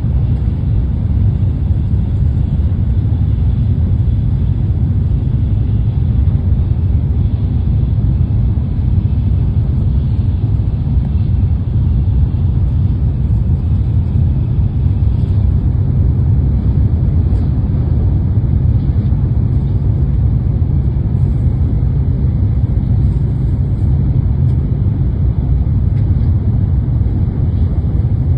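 Steady, loud low rumble of a Shinkansen bullet train at speed, heard from inside the passenger cabin.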